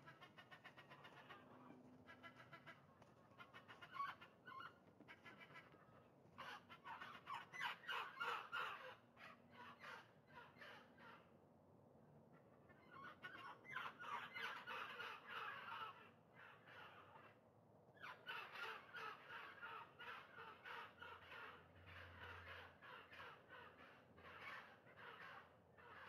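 Birds calling in a pigeon loft: rapid, pulsed calls that come in bursts, with short lulls between.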